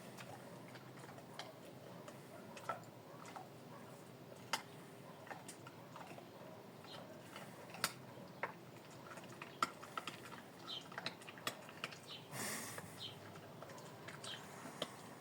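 A dog eating dry food: faint, irregular clicks and crunches, with a short louder rustle about twelve seconds in.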